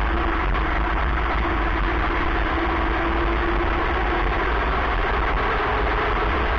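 Go-kart's small petrol engine running steadily, with a low rumble under a broad noisy drone and a faint tone that shifts slightly in pitch near the end.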